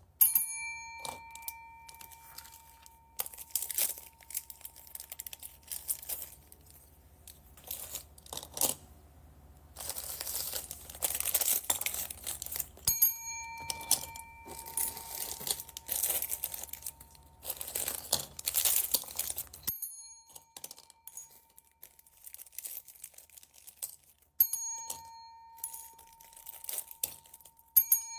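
Plastic bags crinkling and rustling as bagged beads are handled and opened, in irregular bursts. A bright bell-like ding rings out several times and dies away over a second or two.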